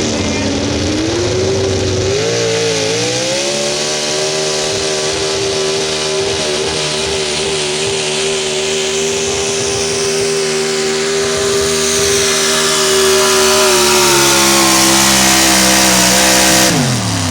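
Super Stock 4x4 pulling truck's engine at full throttle during a pull: it revs up over the first few seconds, holds a high, steady pitch as it drags the sled, grows a little louder toward the end, then drops off sharply as the throttle is cut just before the end.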